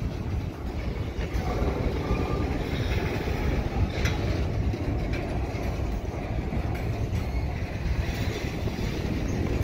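Covered hopper cars of a slow-moving BNSF grain train rolling past close by: a steady rumble of steel wheels on rail, with a few short clicks.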